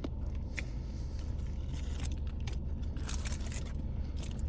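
Steady low hum of a parked car's engine idling, with scattered short crackling and rustling noises, the loudest a cluster about three seconds in.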